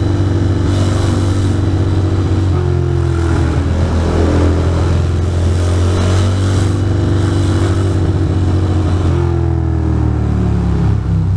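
Ducati Monster 620's air-cooled L-twin engine running under the rider, its pitch falling and rising a few times as the throttle and gears change in traffic.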